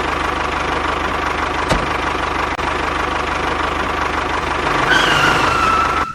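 An engine running steadily at idle with a low rhythmic rumble. About five seconds in, a thin whistling tone joins it, and the sound cuts off suddenly at the end.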